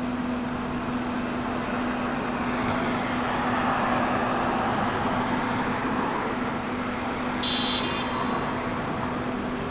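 Vacuum cleaner running steadily over paving stones, a constant hum under a wash of noise, with street traffic passing. A brief high-pitched sound cuts in about seven and a half seconds in.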